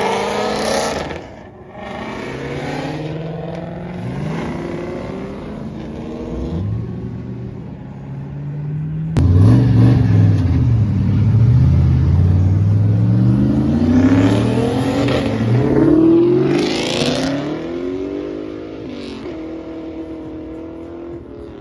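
Car engines revving and accelerating hard, the pitch climbing and dropping again several times as the cars pull away. The loudest run of rising revs comes in the second half.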